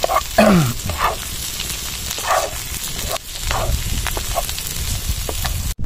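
Cauliflower, petai and egg sizzling in oil in a wok while a wooden spatula stirs and scrapes them in repeated strokes. About half a second in there is a brief falling voice-like sound, and the sound cuts off abruptly just before the end.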